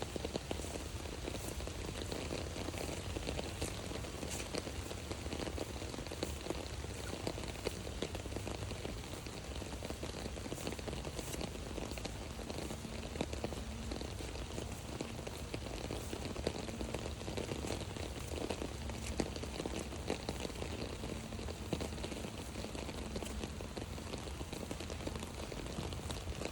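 Steady rain falling on an umbrella held overhead, a dense patter of drops that holds even throughout.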